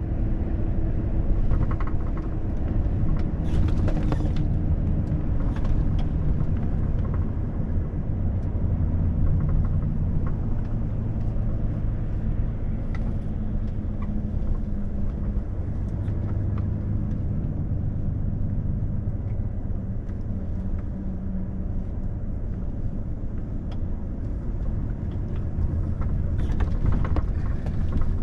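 Volvo FH truck driving at road speed: a steady low engine and road rumble with faint engine tones that shift slightly in pitch. Brief hissing noises come about 4 s in and again near the end.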